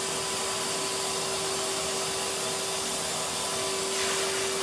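Vacuum cleaner running steadily, a constant motor hum with airflow hiss, getting a little louder near the end.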